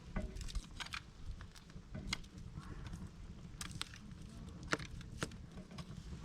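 Wood campfire crackling: sharp, irregular pops and snaps from burning logs over a low steady rumble.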